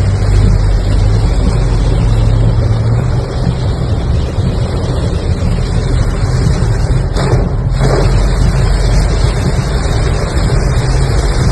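A car driving through heavy rain: a dense, steady hiss of rain and spray over the low hum of the engine and tyres.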